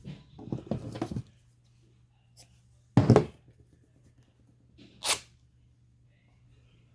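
Craft materials being handled on a table: crackly rustling of fabric and paper for about a second, then a loud short knock about three seconds in and a brief brushing sound about five seconds in.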